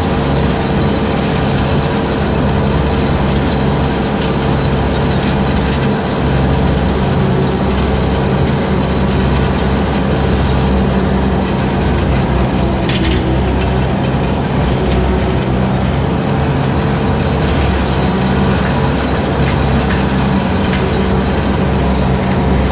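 Skid steer engine running steadily at working speed, driving a 72-inch brush cutter attachment through long grass.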